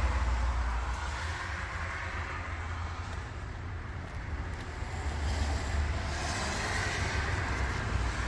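Caterpillar C15 inline-six diesel engine of a Kenworth W900 truck running steadily with a low rumble, swelling slightly about five seconds in.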